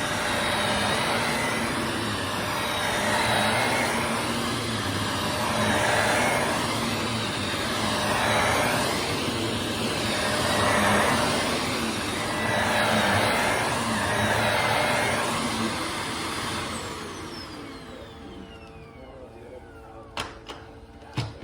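Vacuum cleaner running over an area rug, its sound swelling and fading about every two and a half seconds with the back-and-forth strokes. After about sixteen seconds the motor is switched off and winds down in a falling whine, followed by two sharp clicks near the end.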